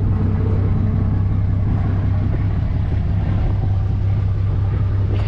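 Truck engine running steadily at low speed while the vehicle is slowly steered into position, a constant low drone.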